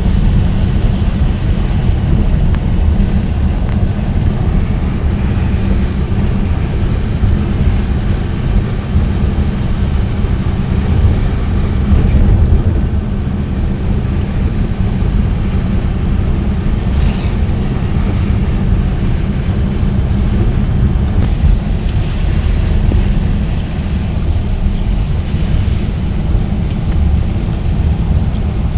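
A vehicle on the move: a steady, loud low rumble with wind buffeting the microphone.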